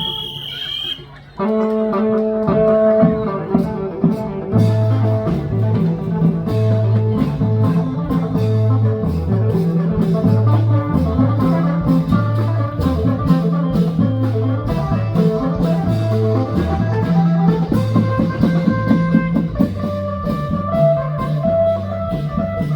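Live band music with a steady, pulsing bass line and drums. It drops back briefly at the start and comes in full about a second and a half in.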